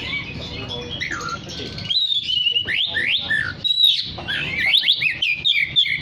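Oriental magpie-robin (kacer) singing: a fast run of clear whistled notes that sweep up and down, sparse at first and then dense and continuous from about two seconds in.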